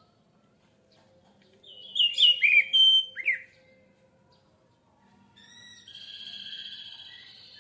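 Orange-headed thrush singing one loud, quick phrase of whistled notes that drop in pitch. A steady, thinner high-pitched sound follows from about five seconds in.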